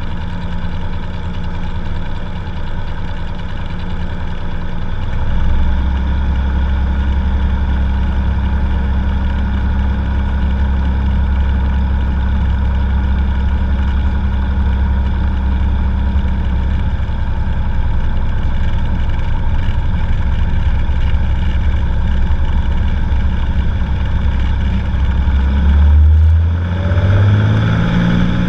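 Cessna 182's piston engine and propeller running steadily. It gets louder about five seconds in, and near the end the pitch climbs quickly over about two seconds as power is added.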